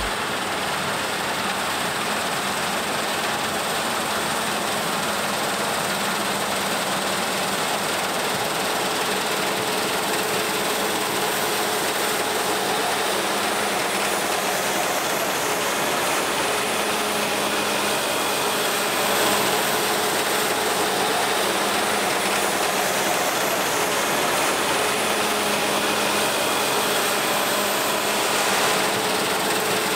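Heavy harvest machinery running steadily in a wheat field: an even, unbroken machine noise with faint steady whines over it.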